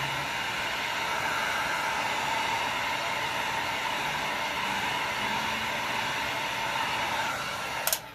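Heat gun blowing steadily with a whining hiss, switched off with a click just before the end.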